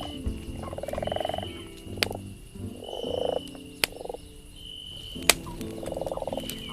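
Frogs calling in rapid pulsed croaking trills, three in a row, each under a second long, over a crackling campfire that gives several sharp pops.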